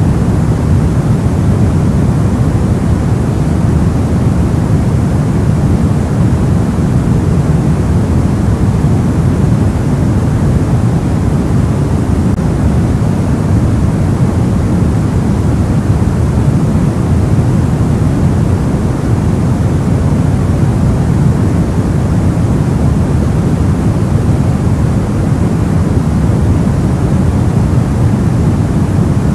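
Soft white noise for sleep: a steady, even rush, deepest in the low end, that never changes.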